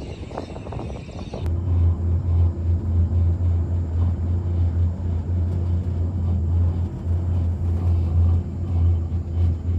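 Steady low rumble of a moving vehicle, beginning abruptly about a second and a half in after a quieter hiss, with a slight pulsing in the rumble.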